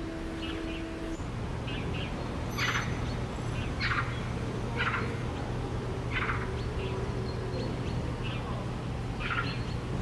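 Small birds chirping outdoors in short, sharp calls about once a second, over a steady low hum.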